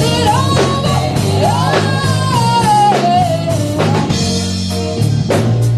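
Live gospel band playing, with drum kit hits and a steady bass line, under a wordless sung line that wavers and slides downward in pitch about two seconds in.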